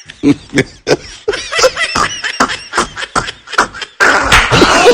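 A person laughing in short repeated bursts, then an abrupt cut about four seconds in to a louder, noisier mix of sound.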